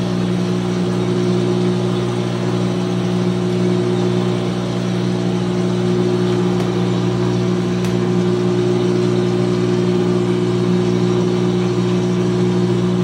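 2006 GE Profile top-loading washer draining and spinning, its drain pump giving a loud, steady hum made of several even tones.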